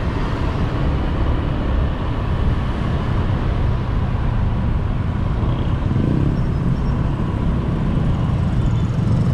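Steady road noise from a moving motorbike taxi, heard from the pillion seat: engine and traffic blend into an even rumble with no break.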